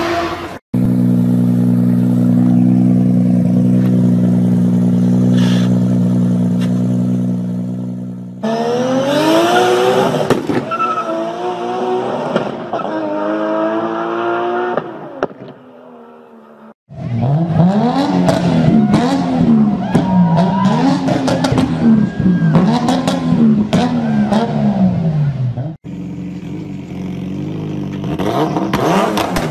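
Car engine sounds in several cut segments. First a steady high-rev drone, then revs climbing again and again as if shifting up through the gears, then revs swinging up and down about every second and a half, then a steadier run near the end.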